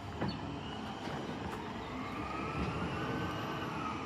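Garbage truck's diesel engine running with a steady low rumble. In the second half a faint whine slowly rises and falls in pitch over it.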